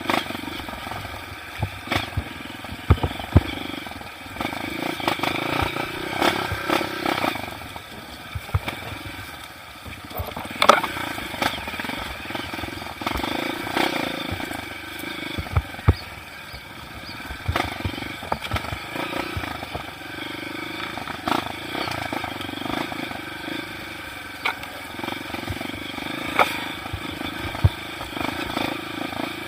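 Dirt bike engine running with revs rising and falling every few seconds, over frequent sharp knocks and rattles from rough trail riding.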